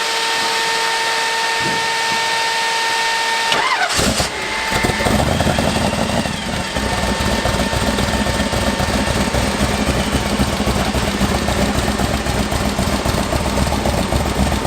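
A steady high whine, then about four seconds in the hot rod's supercharged 502-cubic-inch big-block V8 starts up and runs on at a loud, pulsing idle.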